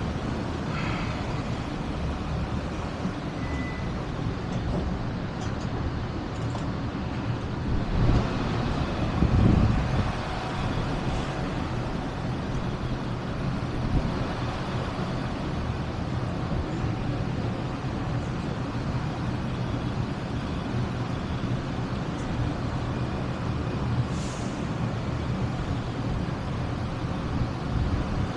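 A motor vehicle's engine running steadily, with a low hum that swells louder for a couple of seconds about eight seconds in.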